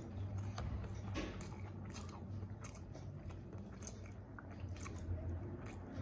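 Close-up chewing of soft food, mac and cheese and stuffing, with many irregular wet mouth smacks and clicks. A low steady hum lies underneath.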